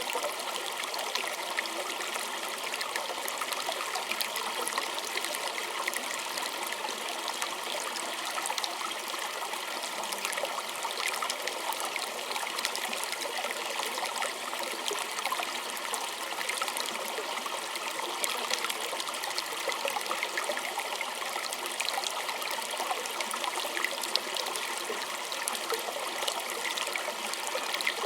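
A small stream trickling and burbling steadily over stones, a continuous rush with many small splashes and droplets.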